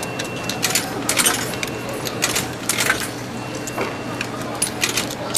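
Coins clinking one after another as they are fed into a ticket vending machine: a string of sharp metallic clinks at uneven intervals, over a steady hum.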